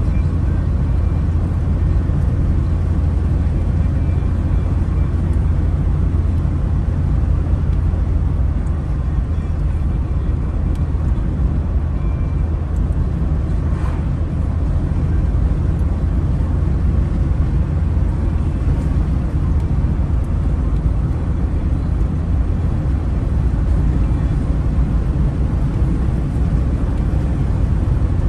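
A car driving along a road: the steady low rumble of its engine and tyres, holding an even level, with a faint click about halfway through.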